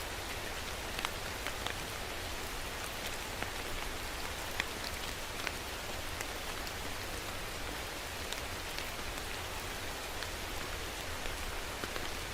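Steady rain falling, an even hiss with individual drops pattering and ticking close by.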